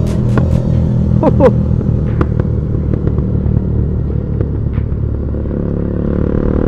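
Bajaj Pulsar NS200's single-cylinder engine running through an aftermarket Akrapovic exhaust at steady revs while riding, with a few sharp clicks in the first couple of seconds.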